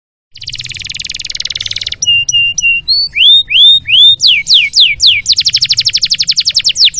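Domestic canary song: a fast buzzy trill starts about a third of a second in, then gives way to clear whistled notes, rising and falling sweeps, and another rapid trill about five seconds in.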